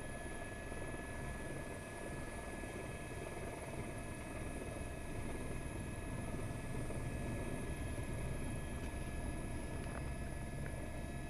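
Helicopter running steadily: a constant low rumble of engine and rotors with a thin steady whine over it.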